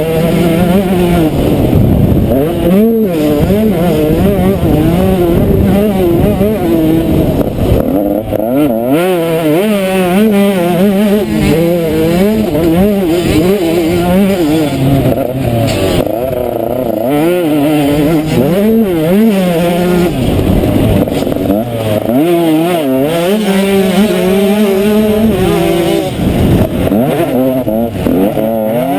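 Motocross bike engine running hard and revving up and down, its pitch rising and falling again and again as the throttle opens and closes.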